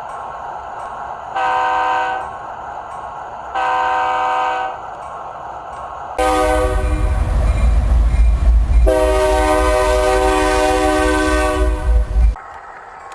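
Diesel locomotive air horn: two short blasts, then a long blast of about six seconds with a deep rumble beneath it.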